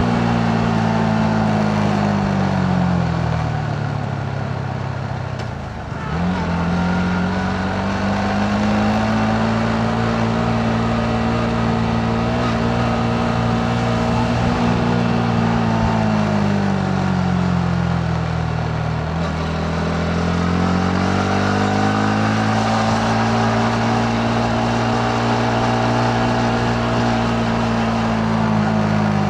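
Yamaha MT-15's single-cylinder engine under way, heard from the rider's seat with wind and road noise. Twice the engine note falls as the throttle is eased, about three to six seconds in and again around sixteen to nineteen seconds, then climbs back and holds steady.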